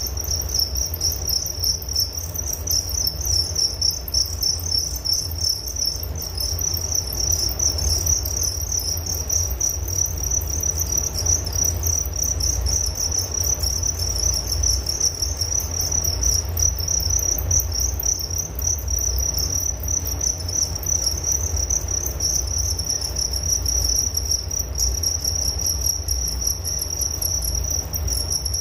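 Crickets chirping steadily in a dense, fast-pulsing high-pitched trill that never stops, over a low rumble.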